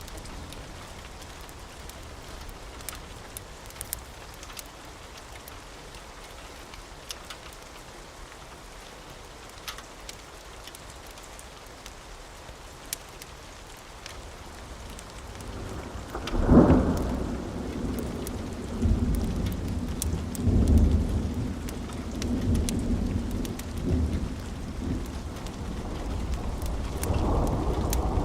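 Steady rain, then about halfway through a sudden clap of thunder that rolls on in low rumbles, swelling again near the end.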